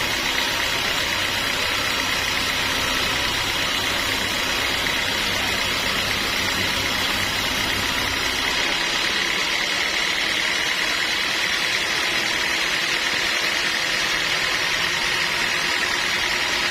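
Sawmill machinery running steadily, a constant mechanical drone with a steady whine in it; the deep rumble under it drops away about halfway through.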